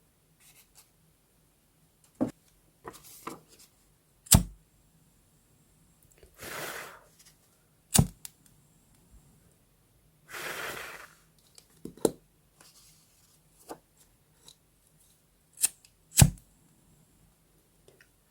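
Paper and stationery being handled while decorating a journal: a series of sharp taps and clicks, with two brief papery swishes of about a second each.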